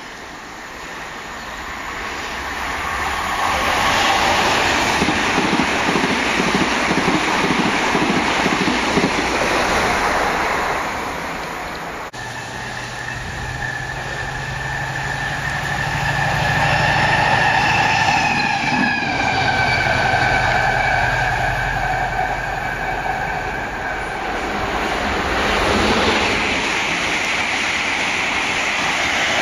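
Trains passing on a main line. A broad rush of train noise builds a few seconds in. Then a Class 70 diesel freight locomotive runs with a steady engine drone and whining tones, and near the end a Class 800-series express rushes past.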